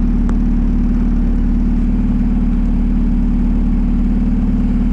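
Turbocharged 1992 Acura Integra GS-R four-cylinder engine idling steadily.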